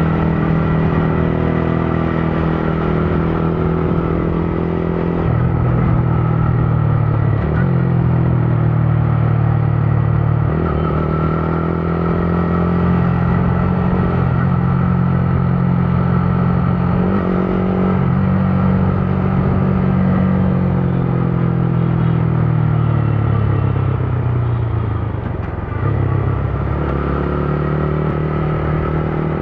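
Motorcycle engine running under way in city traffic, its pitch stepping up and down with throttle and gear changes. The engine note falls away from about 22 seconds in, as if slowing, then picks up again near the end.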